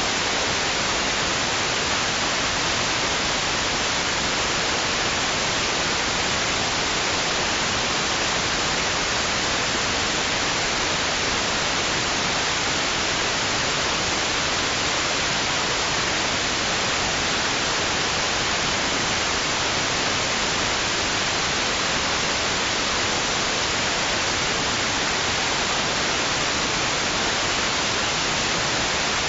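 Steady white-noise hiss, even and unchanging, weighted toward the high end, with no rise and fall of waves.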